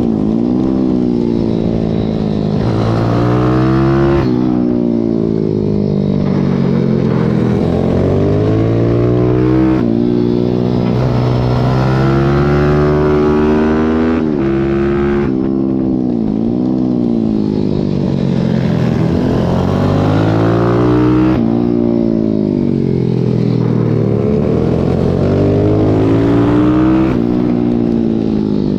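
Pit bike's single-cylinder engine heard from onboard at racing pace, its pitch climbing with each gear and breaking at the shifts, then falling away several times as it slows for corners before revving up again.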